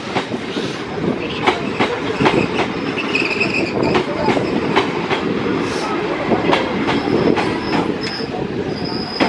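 Electric multiple unit local train running past close by, a steady rumble of steel wheels with sharp clicks over the rail joints about once or twice a second. Brief high wheel squeals come a few seconds in and again near the end.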